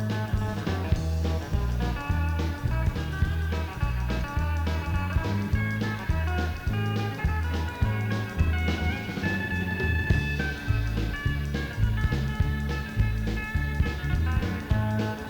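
Live country band playing an instrumental break with no vocals: drums keep a steady beat under a bass line, and electric guitars and pedal steel guitar carry the melody, with one long held high note about two-thirds of the way through.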